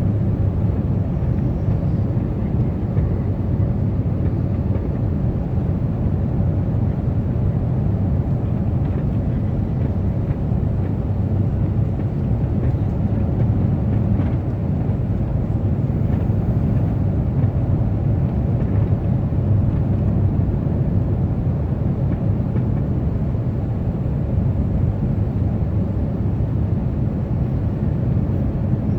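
Steady cabin noise aboard an Airbus A350-900 airliner: an even low rumble of engines and airflow, with no distinct events.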